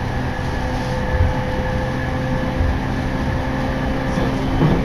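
Interior noise of a Tokaido Line electric commuter train running between stations: a steady low rumble of the wheels on the rails, with a faint steady hum, heard from inside the passenger car.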